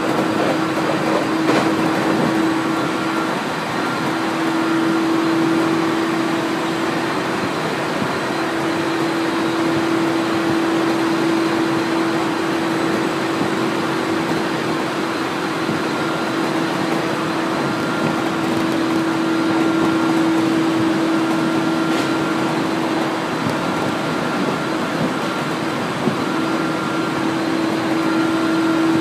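A 701-series electric train running at speed, heard from inside the car: steady running noise with a steady hum that fades out and returns a few times.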